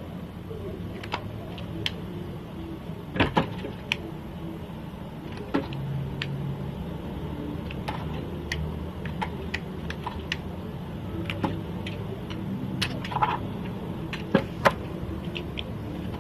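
Slime being squeezed and stretched by hand, giving irregular sharp clicks and pops over a low steady background noise. A few louder pops come about three seconds in and near the end.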